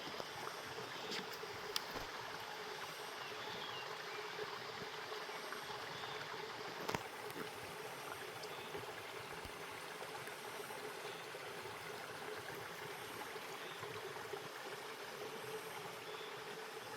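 Stream water flowing steadily, with a few sharp clicks, the clearest about seven seconds in.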